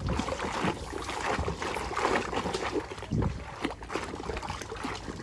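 Water splashing and sloshing in uneven strokes as a muddy plastic toy vehicle is washed clean by hand.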